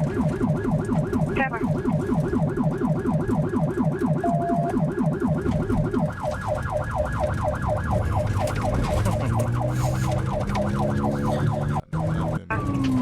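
Police car siren on a fast warble, about six sweeps a second, that cuts off near the end. A lower warbling layer drops out about halfway, and a steady, slowly rising engine tone comes in under the siren.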